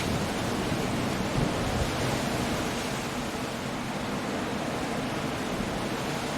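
Coastal storm: a steady, dense roar of surf, wind and rain, with two short low thuds about a second and a half in.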